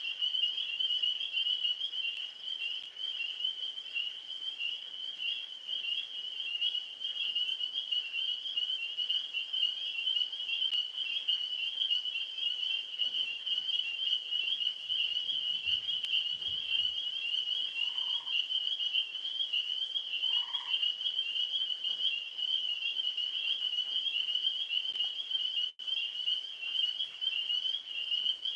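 Dense night chorus of tree frogs: a continuous high trilling that holds steady throughout, with a couple of faint lower calls past the middle.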